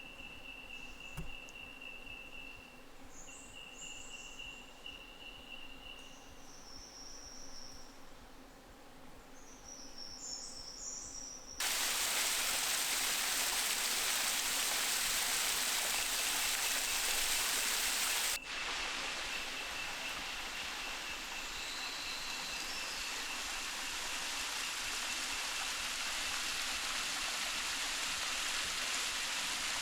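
A steady high insect trill with a few short, higher chirps, then an abrupt cut about a third of the way in to the loud, steady rush of a waterfall, with the insect trill faintly beneath it.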